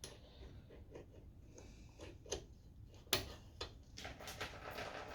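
Faint, scattered clicks and knocks of hands and tools working on a small engine's carburettor with the engine stopped, the loudest knock about three seconds in.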